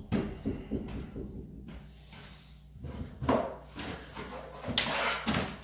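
Scattered wooden knocks, bumps and scrapes as a cabinet is worked loose by hand, with a quiet spell in the middle and a louder knock near the end.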